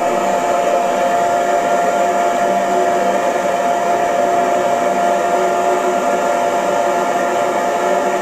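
Electric hair dryer running steadily, an even rushing noise with a steady motor whine.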